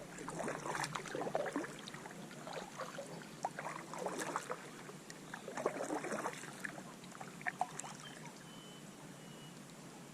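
Kayak paddle strokes splashing and dipping into the river water, in a few clusters a couple of seconds apart, with drips and small knocks in between.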